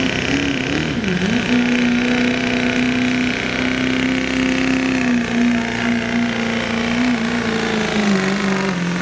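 Diesel pickup in the 2.6-inch turbo class pulling under full throttle: the engine is held at high revs with a high-pitched turbo whistle over it. The revs dip briefly about a second in and drop off near the end.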